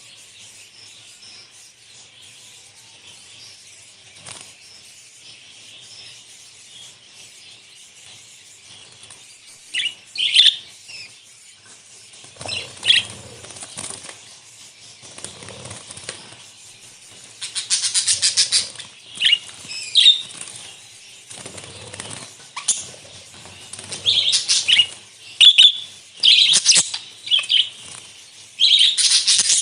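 A flock of budgerigars chattering continuously in high twitters, with louder bursts of wing flapping and calls in the second half.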